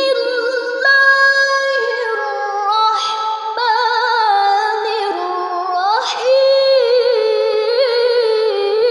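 A woman reciting the Quran in a melodic, chanted style, holding long ornamented notes that step and slide between pitches. In the second half the held notes carry a quick vibrato.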